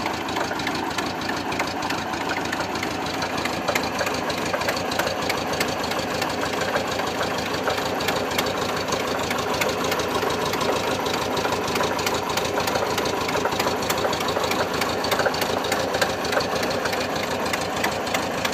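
1973 VW Microbus's 1600cc air-cooled flat-four engine running steadily, with a fast, even mechanical clatter over its hum.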